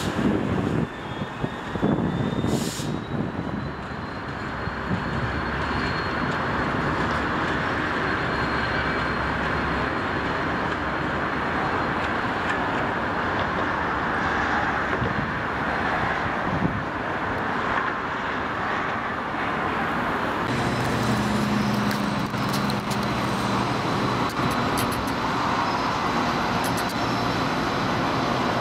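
Commuter trains with diesel locomotives running on the tracks. First a train moves away over the rails, with two sharp clicks in the first few seconds. After a cut about 20 seconds in, another diesel locomotive approaches, its engine giving a steady low hum.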